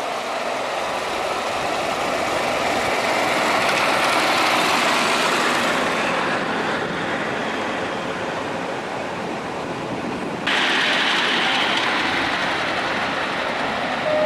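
Miniature ride-on railway train running along the track. It grows louder to a peak about four seconds in and then eases off, and the sound changes abruptly about ten seconds in.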